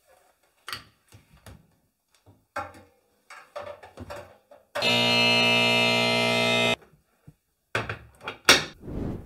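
Knocks and clunks as a laptop is loaded into the drum of a front-loading washing machine. Midway comes a loud, steady, rich electronic tone lasting about two seconds. Near the end the machine's door is pushed shut with a thump.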